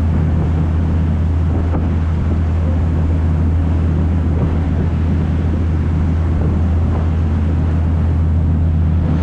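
Sightseeing boat's engine droning steadily under way, with wind noise on the microphone.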